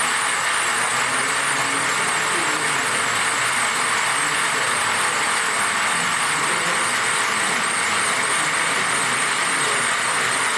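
Radio-controlled model trucks and tractors running, a steady noise with a high, regularly wavering whine throughout.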